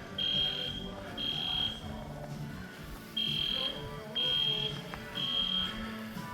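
Fire alarm sounding in the temporal-three evacuation pattern: three high half-second beeps about a second apart, a pause, then three more, with music playing underneath.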